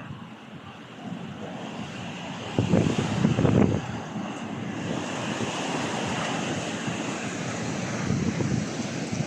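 Strong gusting wind, buffeting the microphone with heavy low rumbles about three seconds in, then settling into a steadier rushing hiss.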